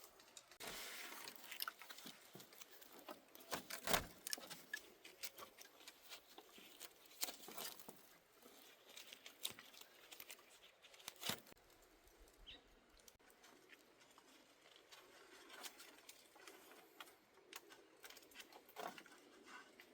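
Faint, irregular taps, clicks and rustling, with a few sharper knocks about 4, 7 and 11 seconds in.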